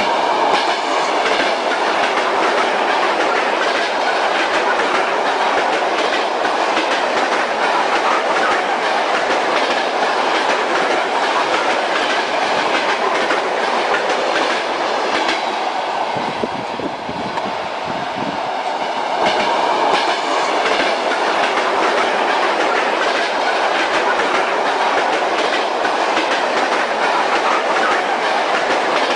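Train running along the track, its wheels clattering steadily over the rail joints. The sound eases off briefly a little past halfway, then picks up again.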